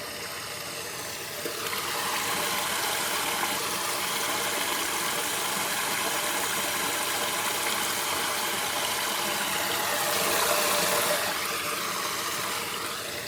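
Floodwater rushing down into a cleared storm drain, in a steady gushing stream. It grows louder about two seconds in, is loudest around ten seconds, then eases near the end.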